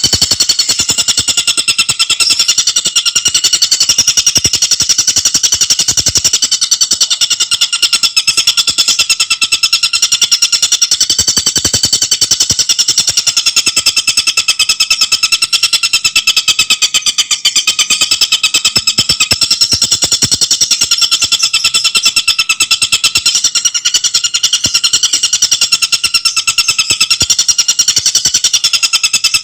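Tengkek buto bird calling in a fast, tightly packed chattering trill, the notes repeating rapidly and without a break.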